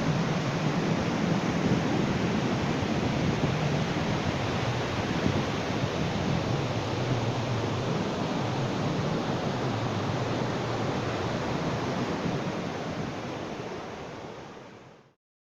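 Ocean surf: waves washing onto a beach as a steady rushing noise, fading out near the end and then cutting off.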